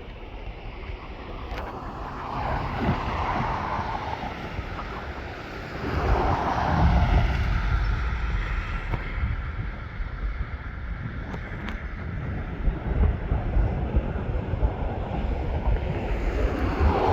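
Airbus A320 jet engines on landing approach: a steady rushing roar that grows louder, with a jump about six seconds in. Wind buffets the microphone throughout.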